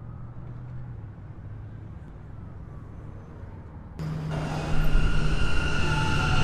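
Low rumble with a faint siren wailing in the distance, then about four seconds in a sudden jump to a loud subway train running, with a steady high-pitched whine over the rumble of the wheels.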